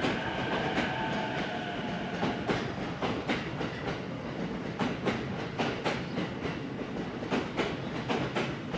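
Electric commuter train running along a station platform: steady rumble with wheels clacking over rail joints in evenly spaced pairs, one pair about every second as each car's bogies pass. A high whine sounds over it and fades out about two and a half seconds in.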